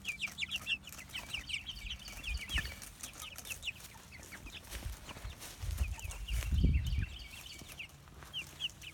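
A flock of young meat chickens peeping, with many short, high, falling chirps overlapping. A low rumble, the loudest sound, comes about six seconds in and lasts about a second and a half.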